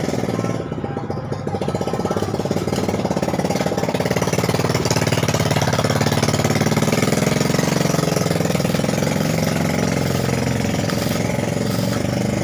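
A motor-driven machine running steadily with a fast rattle; it dips in loudness briefly about a second in, then runs on evenly.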